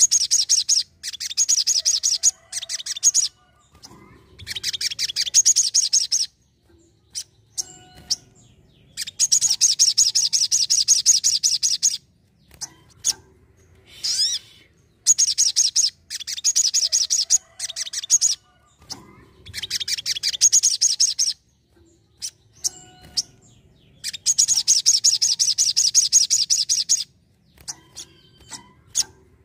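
Crimson sunbird (sogon) singing: repeated bursts of rapid, high-pitched twittering trills, each lasting one to three seconds, separated by short pauses with a few single chips in between.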